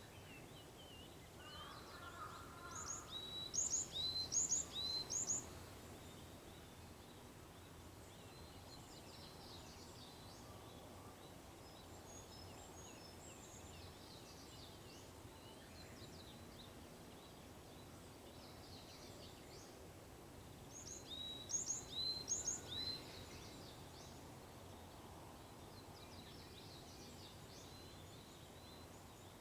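Japanese bush warbler (uguisu) singing: two short, loud phrases, each a quick run of four or five sharp, high notes, one a few seconds in and one about two-thirds of the way through. Faint chirps from other birds and a steady outdoor hush fill the gaps.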